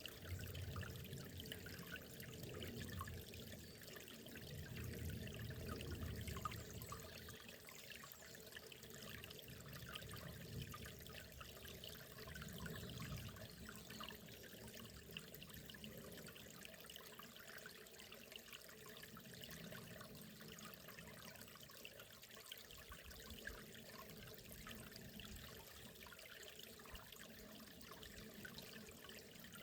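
Faint, steady running water of a small forest river, trickling and gurgling, with low swells that are stronger in the first several seconds.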